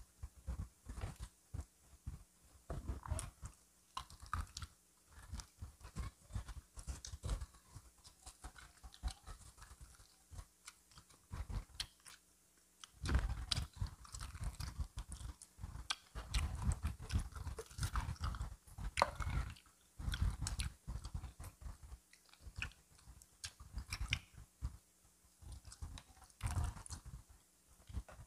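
A person biting and chewing crispy fried chicken, with irregular crunches throughout and a run of louder crunching around the middle.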